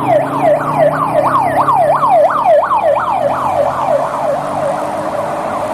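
Ambulance siren in a fast yelp, its pitch sweeping up and down about three times a second, with a low steady hum beneath.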